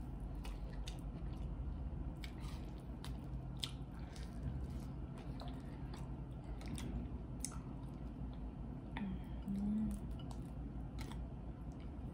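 Close-up eating sounds: chewing, with crawfish shells cracking and squishing as they are peeled, heard as many short sharp clicks. A brief low hum about nine seconds in.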